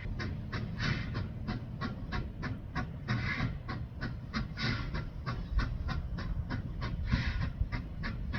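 Steam locomotive No. 93 chuffing steadily at a slow pace: sharp exhaust beats about three to four a second over a low rumble, with a louder hissing puff roughly every second and a bit.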